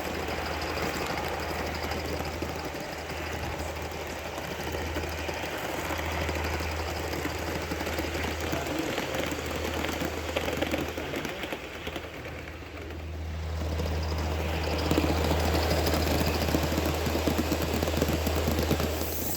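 Aster gauge 1 live-steam tank engine running on garden-railway track, its soft exhaust and wheel noise over a steady low rumble; it dips briefly about two-thirds in, then grows louder.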